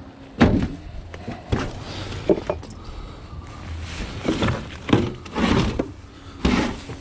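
Irregular thuds and knocks of bulky junk being shifted about in a skip, around seven of them spaced unevenly.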